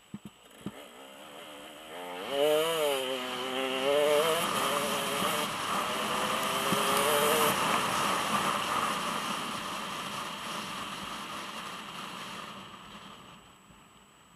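Dirt bike engine revving up and down about two seconds in, then running hard at high revs. It fades away near the end.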